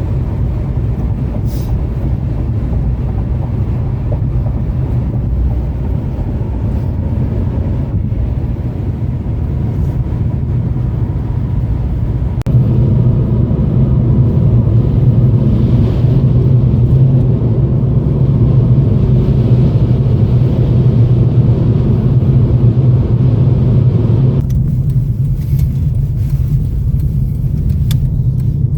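Strong wind blowing across the microphone, a loud, steady low rumble. It grows louder abruptly about twelve seconds in and shifts again near the end.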